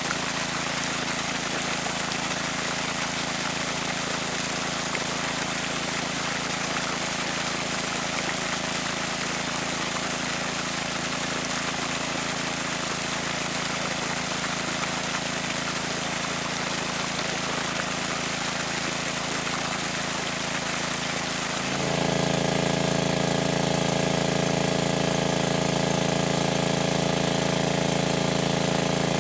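A small engine running steadily; about three quarters of the way through it suddenly gets louder and fuller and holds there.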